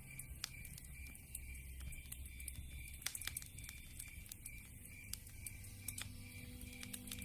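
Wood fire crackling: irregular sharp pops and snaps from burning logs.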